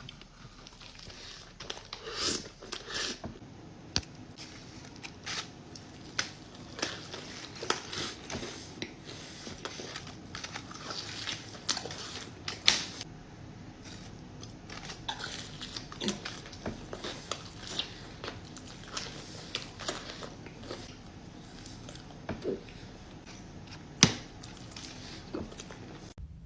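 Close-miked eating: irregular crunching, biting and chewing sounds with crisp crackles, one sharper crunch near the end.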